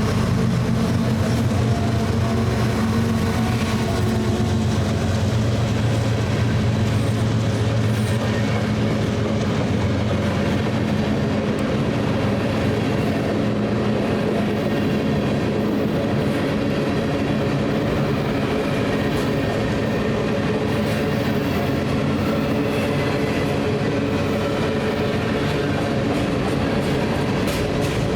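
A BNSF train passing close by: the drone of its diesel locomotive engines for the first ten seconds or so, then the steady rumble of the cars' wheels rolling over the rails.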